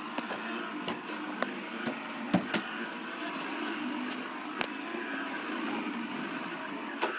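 Shark vacuum cleaner running steadily, with a few sharp clicks over the motor noise, about two and a half and four and a half seconds in.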